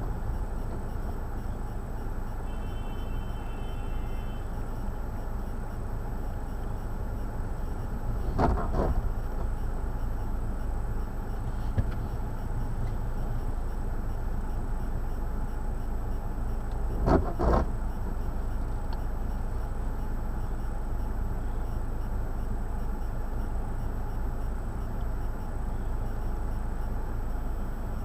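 Steady low rumble of blizzard wind buffeting the microphone, with two short louder bursts about eight and seventeen seconds in.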